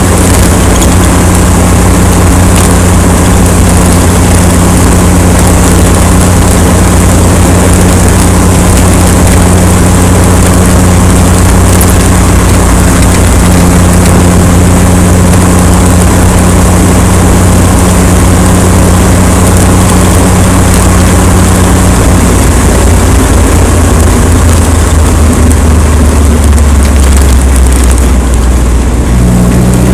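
Steady rush of wind noise over a microphone, with a vehicle engine droning under it. The engine's pitch drops a little after about twenty-two seconds and climbs again near the end.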